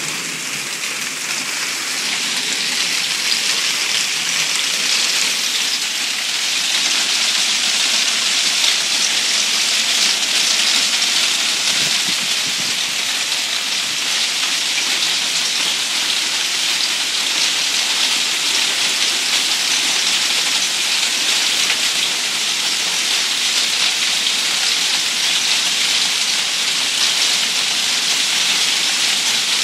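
Hailstorm: hail and heavy rain falling hard in a dense, steady hiss of countless small impacts, growing a little louder about two seconds in.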